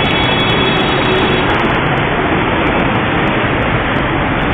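Steady, loud road traffic noise: vehicles running along the road in a continuous wash of sound with no single event standing out.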